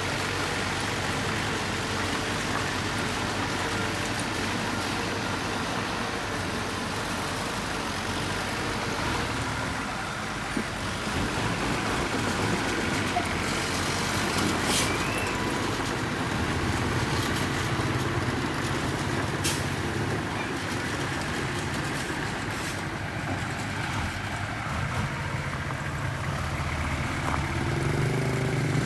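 Diesel engine of heavy earthmoving equipment running steadily, its low drone growing stronger in the second half, with a few brief sharp clicks or clanks.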